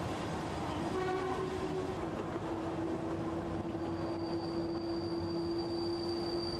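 Kurobe Gorge Railway narrow-gauge train running, heard from aboard: a steady rumble of wheels on rails, with a long steady whine setting in about a second in and a thinner, higher whine joining about halfway.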